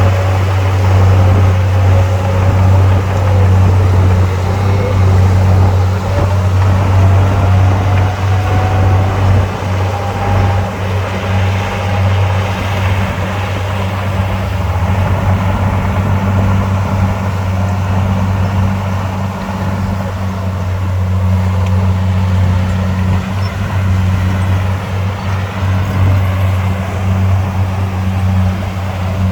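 Heavy diesel engines of earthmoving machinery running steadily with a deep, constant drone, and a higher whine that slowly rises and falls in pitch during the first half.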